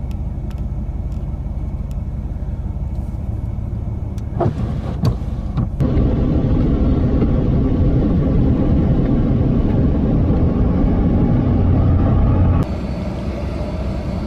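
Vehicle on the road: a steady low rumble of engine and road noise. A few sharp knocks come between about four and six seconds in, and the rumble then grows louder until it drops suddenly about twelve seconds in.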